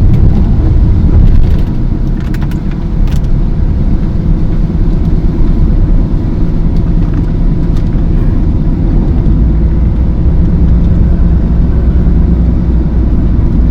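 Steady low rumble of a moving road vehicle's engine and tyres, with a few light clicks in the first few seconds.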